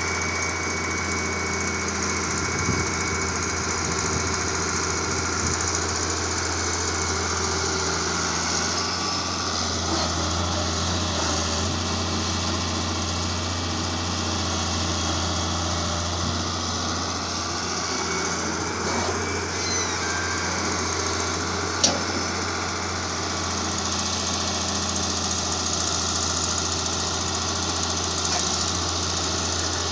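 Heavy machinery's diesel engine running steadily at a constant speed, with one sharp knock late on.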